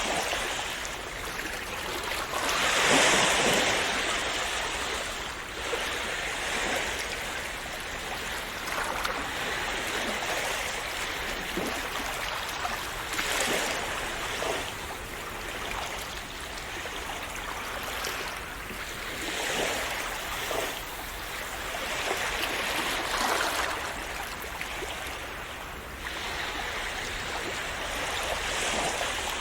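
Small sea waves washing and splashing onto shore, swelling and easing every few seconds, with the biggest wash about three seconds in.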